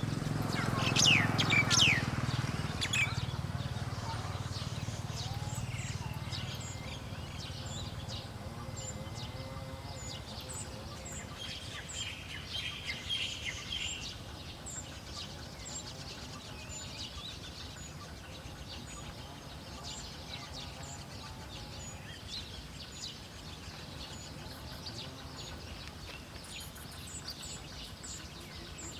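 Wild birds calling: a few loud downward-sweeping calls about a second in, with a low rumble underneath at first, then short high chirps repeating throughout and a brief buzzy chatter near the middle.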